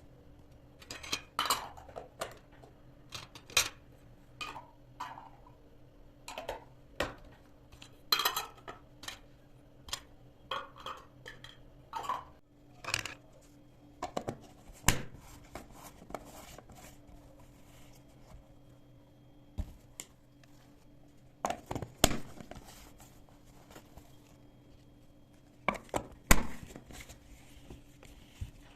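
Kitchen work: dishes, pots and utensils clinking and knocking at irregular intervals, over a faint steady hum.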